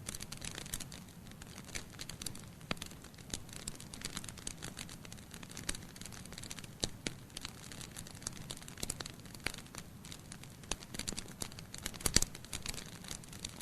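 Wood fire burning logs in a fireplace, crackling with many small irregular pops over a low steady hiss; a louder pop comes about 12 seconds in.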